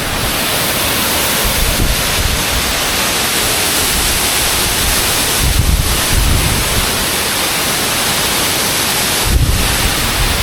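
Loud, steady rushing of a waterfall close by, with wind buffeting the microphone in low gusts about halfway through and again near the end.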